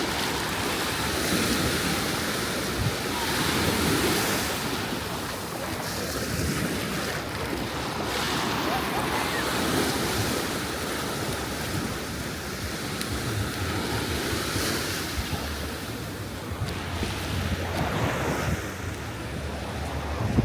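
Ocean surf breaking and washing on a sand beach, swelling every few seconds, with wind buffeting the microphone.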